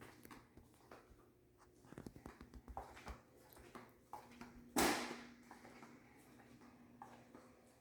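Quiet scattered knocks and rustles in a small room, then one sudden short thump about five seconds in.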